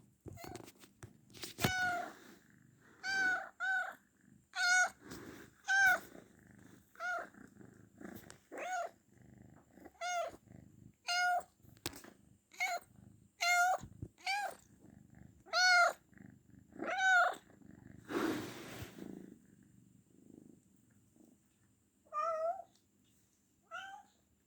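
Domestic cat close to giving birth, meowing over and over in short, rising-and-falling calls about once a second, then pausing before two more calls near the end. Constant meowing like this is one of the signs of a cat about to give birth.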